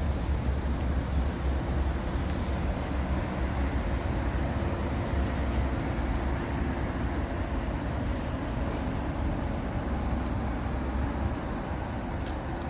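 A car driving at a steady pace: a continuous low engine rumble with road noise and no gear changes or revs. The car is a Porsche Boxster S 986 with a 3.2-litre flat-six.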